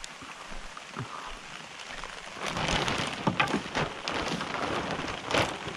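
Steady rain falling. From about two and a half seconds in it grows louder, with several sharp knocks mixed in.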